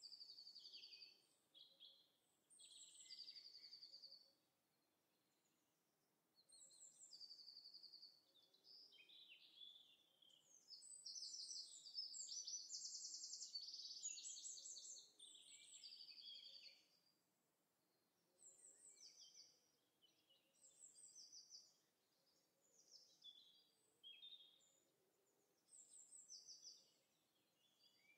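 Faint recorded birdsong from a nature-sound track: songbirds chirping and trilling in short high phrases every second or two, with a denser, louder stretch of overlapping song in the middle.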